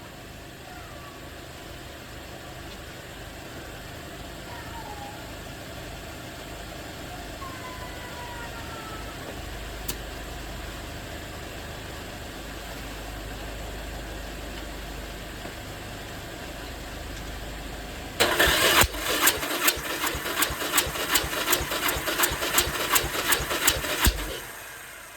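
Electric starter cranking the Yamaha XV1100 Virago's V-twin engine for about six seconds, with a loud rhythmic beat of about three strokes a second, then it stops abruptly.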